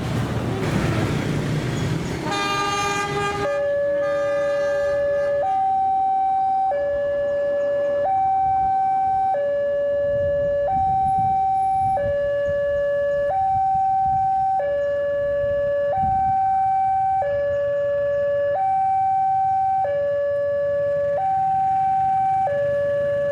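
Electronic warning alarm of a railway level crossing sounding a steady two-tone signal, low and high notes swapping about every second and a bit: the crossing is warning of an approaching train. It starts a few seconds in, after a short horn-like tone over the rumble of passing traffic.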